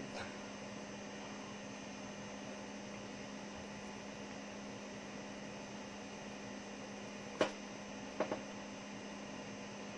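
Steady low electrical hum on the recording, broken by a sharp click about seven and a half seconds in and two small clicks about a second later.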